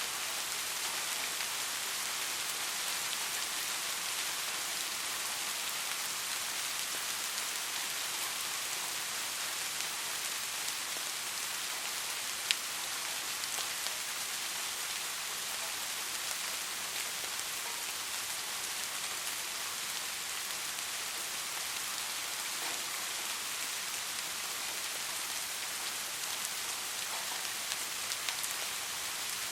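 Steady soft rain: an even hiss of rainfall with occasional single drops ticking sharply, one clearer tick about twelve seconds in.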